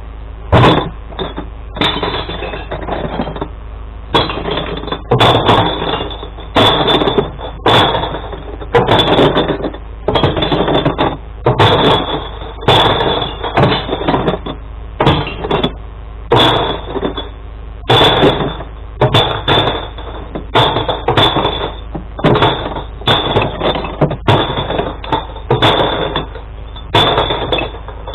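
Glass bottles and jars crashing and smashing into a glass recycling truck one after another, in a run of loud crashes about once or twice a second.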